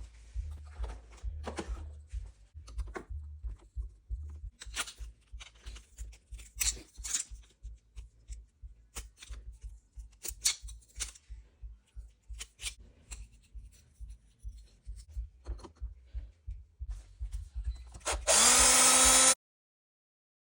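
Workshop handling: scattered clicks and knocks of parts and tools being moved. Near the end a small power tool runs in one loud burst of about a second, rising slightly in pitch as it spins up, then stops abruptly.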